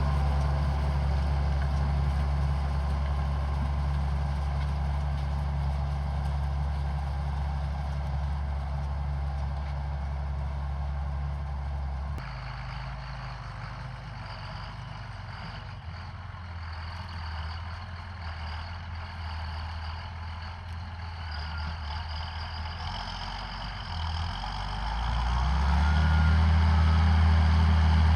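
John Deere 7800 tractor's six-cylinder diesel engine running steadily under load while pulling an Amazone Catros+ disc harrow. The engine gets quieter about twelve seconds in and louder again a few seconds before the end.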